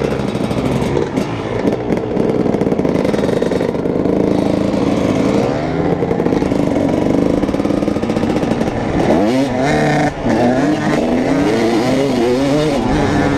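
Dirt bike engines running on a ride, the engine note rising and falling several times in the second half as the throttle is opened and closed.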